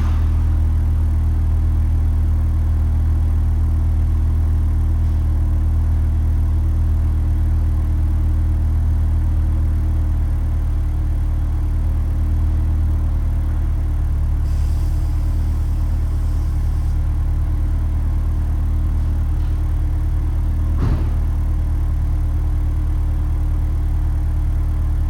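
A 1999 Mitsubishi Eclipse GSX's turbocharged 2.0-litre four-cylinder engine idling steadily after a cold start, with a low, even drone. A single brief click is heard near the end.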